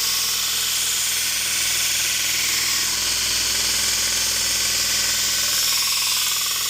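Belt grinder running with a fresh 120-grit belt while a steel kukri blade is ground against it to form the convex edge and raise a burr: a steady abrasive hiss over the motor's hum, the hiss shifting slightly near the end.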